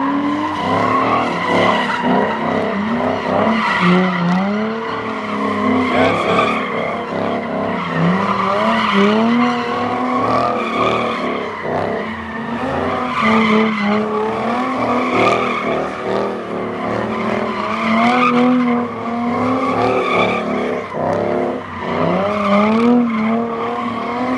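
Car engine revving hard in repeated rising surges every few seconds, over continuous tire squeal from cars doing donuts and burnouts.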